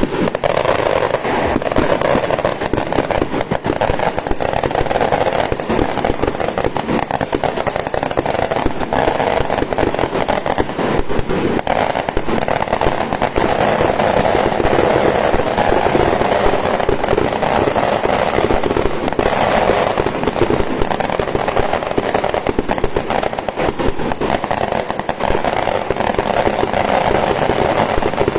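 A large burning bonfire crackling and popping loudly, a dense unbroken stream of sharp pops and cracks over a steady rushing roar.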